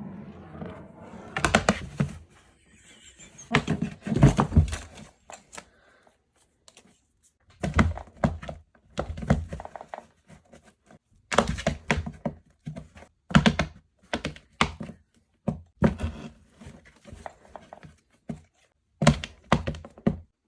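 Plastic whack-a-mole toy knocking and clattering in short clusters of knocks, seven or so groups with pauses between.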